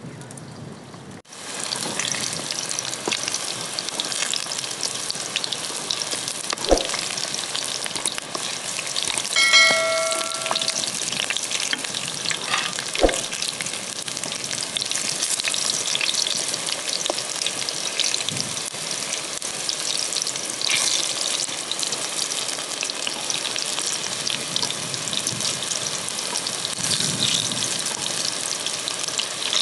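Eggplant slices frying in hot oil in a metal pan: a steady crackling sizzle that starts abruptly about a second in. A fork clinks against the pan a few times, once ringing briefly.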